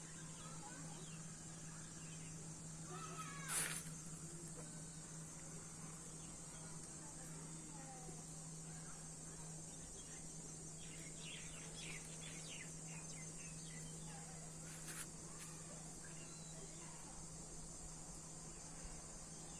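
Insect chorus, a steady high-pitched trill throughout, over a steady low hum, with scattered faint chirps and a sharp click about three and a half seconds in.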